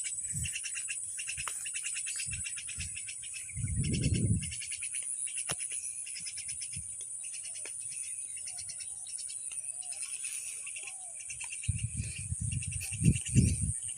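Insect chorus of crickets or cicadas: a rapid, even pulsing trill with a steady high buzz above it. A low thud about four seconds in and a run of low knocks and rustles near the end.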